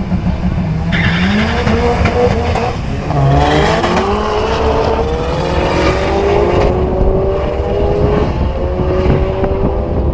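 Turbocharged 2.3-litre four-cylinder engine of a Mazdaspeed3 accelerating hard at full throttle through the gears. The revs climb, drop at a gear change about three seconds in, then climb steadily again.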